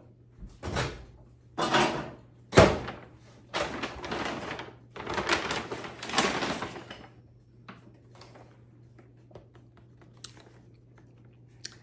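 Takeout food containers being handled and opened: a run of rustles, thunks and one sharp knock in the first seven seconds, then a few faint clicks.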